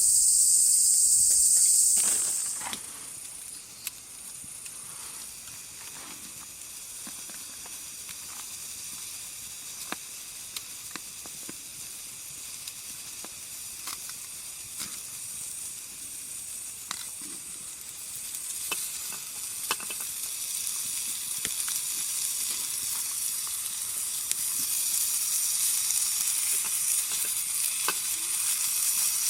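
Insects chirring for about the first two seconds, then a wood fire in a fire-pit stand crackling, with scattered sharp pops and a sizzling hiss that grows louder in the second half.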